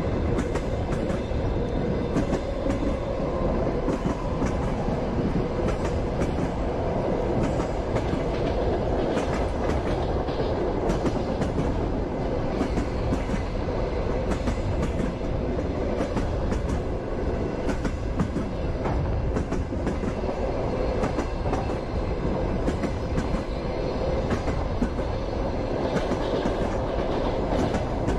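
Passenger train wheels clacking over the rail joints as the train rolls along. A steady rumble runs under irregular knocks and clicks.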